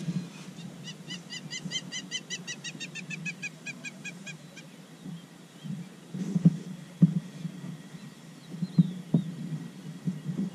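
A bird's rapid trill of about ten clear notes a second, falling slightly in pitch and slowing over about four seconds. It sits over a steady low hum, with a few sharp knocks in the second half.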